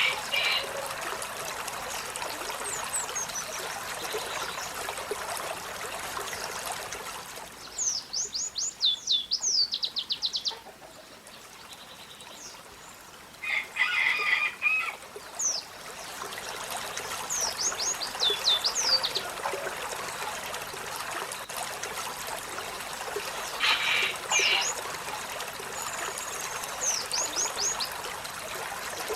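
Olive-backed sunbird singing in several bouts, each a quick run of high, sharply falling notes, with short bursts of harsher chirps between them. Steady trickling water runs behind the bird, dropping out for several seconds in the middle.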